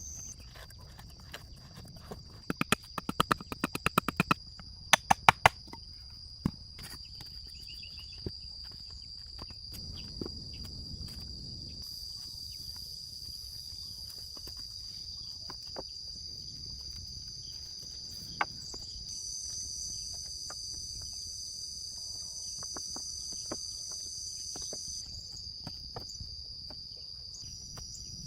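Steady high chirring of crickets or similar insects, with a quick run of about a dozen sharp knocks a few seconds in and a few single knocks later.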